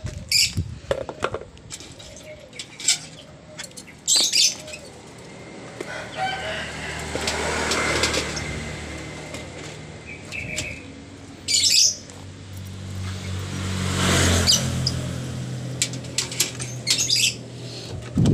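A pet starling fluttering its wings in short bursts, with a few chirps. Twice a low hum swells and fades in the background.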